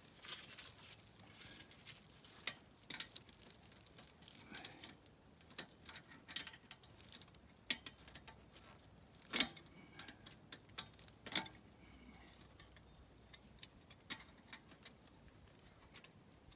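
Irregular light clicks and knocks of hand tools being worked on pump fittings, with a sharper knock about nine seconds in and another about eleven seconds in.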